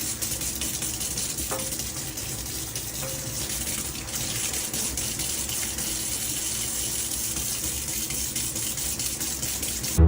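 Steady running water, a continuous even rush that cuts off suddenly at the end.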